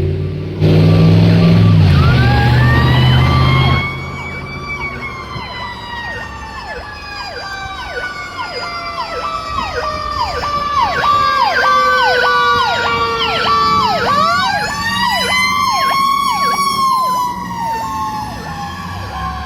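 Fire truck sirens: a mechanical siren winds up, then slowly coasts down in pitch over about ten seconds and winds up again about fourteen seconds in, while an electronic siren yelps with quick sweeps about twice a second. For the first few seconds a loud low horn blast sounds over them.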